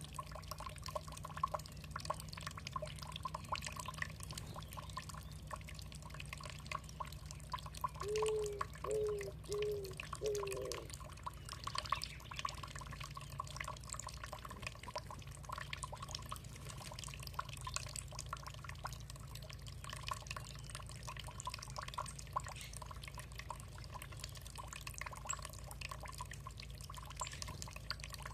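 Water dripping and trickling steadily in a continuous patter of small splashes over a low steady hum. About eight seconds in there are four short low calls in quick succession.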